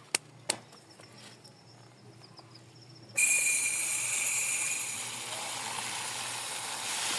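Two light clicks, then about three seconds in a hot cooking pot suddenly starts sizzling loudly as something goes into it. The sizzle carries on as a steady hiss.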